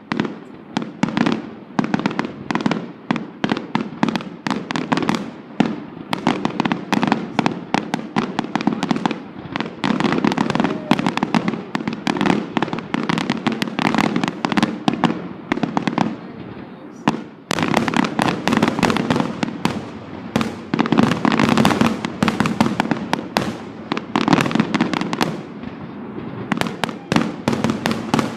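A fireworks display's finale: aerial shells bursting in rapid, overlapping succession, many bangs a second. There is a short easing about seventeen seconds in before a louder barrage.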